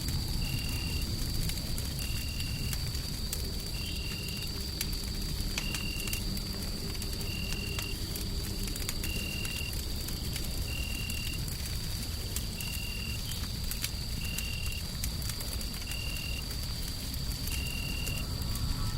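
Fireplace wood fire crackling with scattered sharp pops over a steady low rumble of white noise. A faint steady high whine runs underneath, and a short high chirp repeats about every second and three-quarters.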